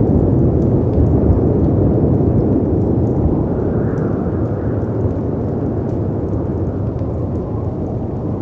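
Deep, steady rumble of wind and sea waves, swelling once about four seconds in, with sparse small crackles and pops of a fireplace on top.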